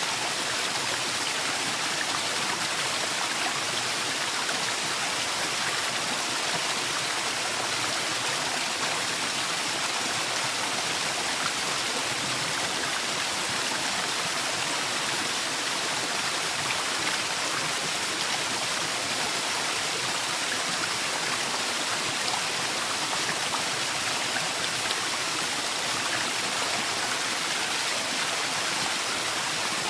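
Waterfall in a forest, falling water rushing and splashing in a steady, unbroken hiss.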